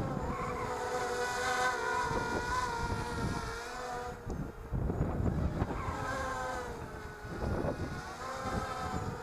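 ZMR250 mini racing quadcopter's Sunnysky brushless motors and Gemfan propellers whining, the pitch rising and falling as the throttle changes, with low wind rumble on the microphone.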